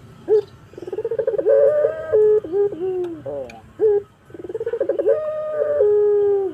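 Puter (domestic turtle dove) cooing: two long coos, each opening with a fast stuttering roll that steadies into a held note and drops at the end, with short single notes between them.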